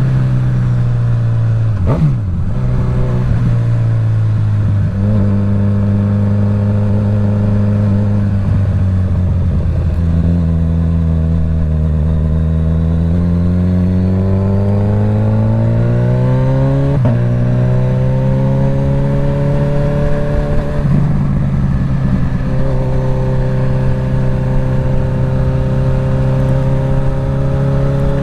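Suzuki GSX-S1000's inline-four engine through a full Dominator exhaust, heard from a mic inside the rider's helmet while riding. The engine note rises and falls with several gear changes, including a long steady climb in pitch that drops suddenly about 17 seconds in.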